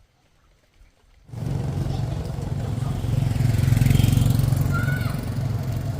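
A motor vehicle's engine running close by. It starts abruptly a little over a second in, is loudest around four seconds in and then eases slightly. A bird chirps briefly near the end.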